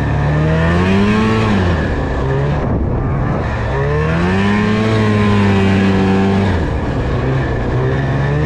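Snowmobile engine running under throttle while riding, its pitch rising and falling: it climbs about a second in, drops off near three seconds, climbs again and holds, then eases off near seven seconds and rises once more at the end.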